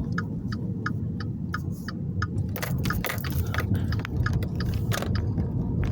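Car turn-signal indicator ticking about three times a second over the steady low rumble of engine and road noise inside the cabin, as the car turns in.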